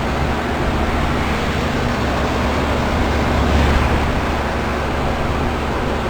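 Outdoor heat pump units running steadily in heat mode: the condenser fan's whoosh over a low compressor hum, with a slight swell about three and a half seconds in.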